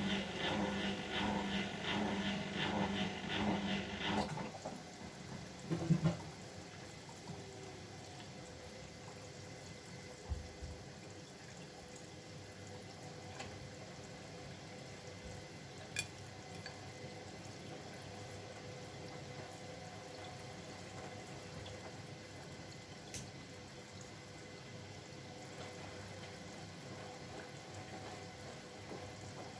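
Bosch Maxx WFL 248Y washing machine: a pulsing hum stops about four seconds in, there is a thump near six seconds, and then water runs faintly and steadily into the machine, with a few sharp clicks.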